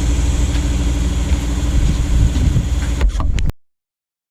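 Small single-cylinder Briggs & Stratton engine (5.5 hp) on a mini skid-steer loader, running steadily; the sound cuts off abruptly about three and a half seconds in.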